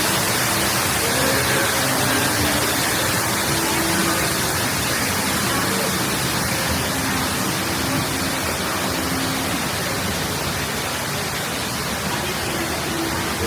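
Steady rushing water of a boat ride's flume, an even hiss with no splash or drop, and faint pitched sounds underneath.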